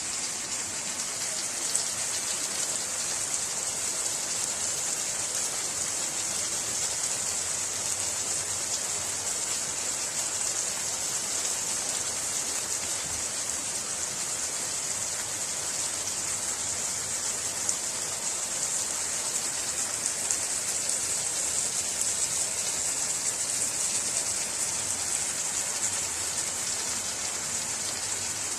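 Vegetables frying in oil in a paella pan: a steady sizzle with occasional sharp crackles.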